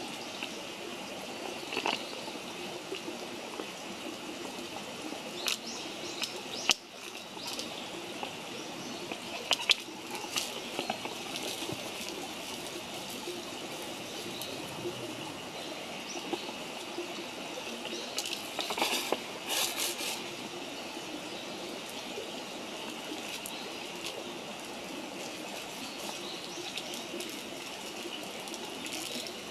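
Wood campfire burning, with scattered sharp crackles and pops: a few around the quarter and third mark and a short cluster about two-thirds through. Under them runs a steady water-like rushing hiss.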